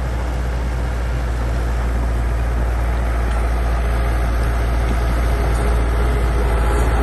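Bulldozer's heavy diesel engine running steadily under load, slowly growing louder.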